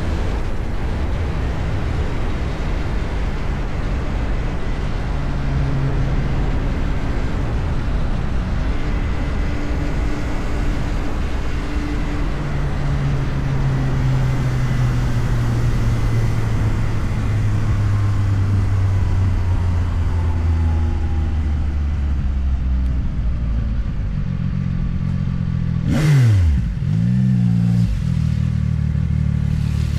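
CFMOTO 675NK's three-cylinder engine running under way with steady wind rush. The engine note slowly falls through the middle, then dips sharply and picks back up a few seconds before the end.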